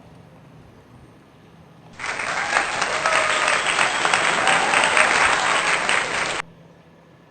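A crowd applauding, with dense clapping that starts abruptly about two seconds in and cuts off sharply after about four seconds, like an edited-in applause clip.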